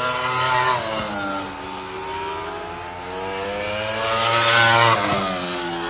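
MotoGP racing motorcycle engine revving hard under acceleration, its pitch climbing twice and dropping back after each climb.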